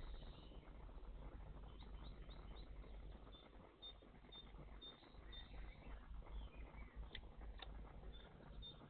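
A small songbird calling faintly in short high chirps, repeated about twice a second, with two brief sharp sounds about three-quarters of the way through.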